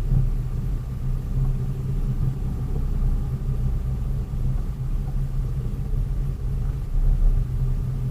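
Steady low rumble of a delivery vehicle's engine and road noise while driving.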